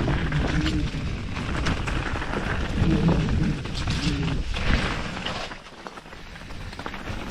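Canyon Spectral AL6 mountain bike ridden down a wet enduro trail on a GoPro: heavy wind and ride rumble with rattling knocks from the bike over rough ground, the sharpest knock about two-thirds of the way in, and the noise easing briefly near the end.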